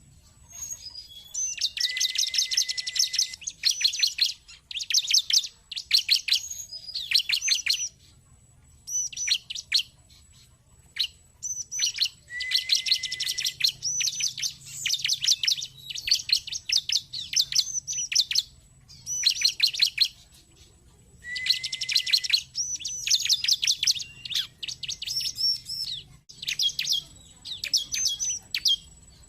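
Bar-winged prinia (ciblek) song: rapid, high-pitched chirps delivered in repeated bursts of one to two seconds, with short pauses between them.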